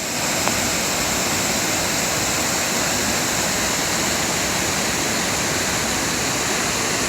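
Steady rush of water from a waterfall swollen by heavy rain, an even unbroken noise.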